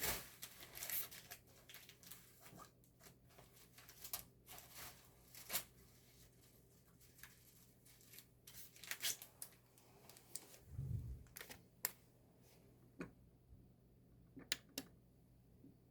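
Album packaging being handled and opened: scattered short crinkles and rustles of paper and plastic, with one soft thump about eleven seconds in.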